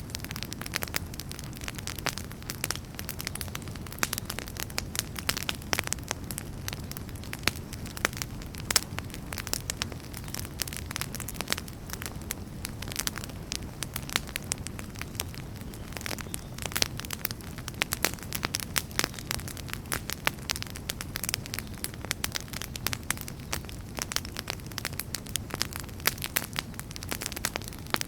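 Wood fire burning in a fireplace: a low steady rumble of the flames with dense, irregular crackles and pops of burning logs.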